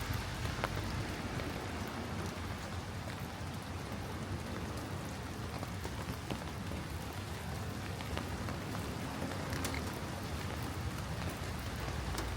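Steady rain falling and pattering on surfaces, with scattered sharp ticks of individual drops.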